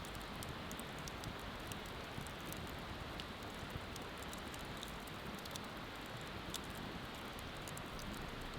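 Wood bonfire crackling, with many small irregular pops, over a steady rush of flowing river water.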